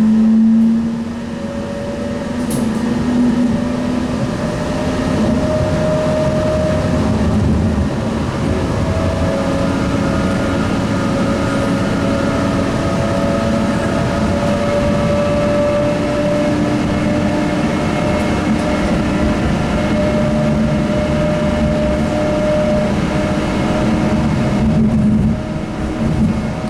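Sound Transit Link light rail car running, heard from inside the car: a steady rumble with several whining tones that slowly shift in pitch.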